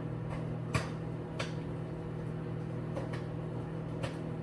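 Samsung microwave oven running with a steady hum while popcorn kernels in a microwave bag pop one at a time inside it, about four distinct pops: the first pops of the batch, as popping begins.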